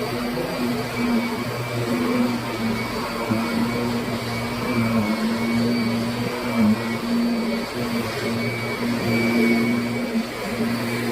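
Kirby Sentria upright vacuum cleaner running steadily: a constant motor hum with a fainter high whine above it.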